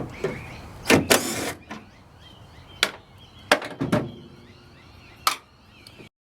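Scattered knocks and clicks, about six in all with quiet between them, from hand tools and the window regulator being worked on inside a car door as its bottom mounting bolts are undone. The sound cuts off abruptly near the end.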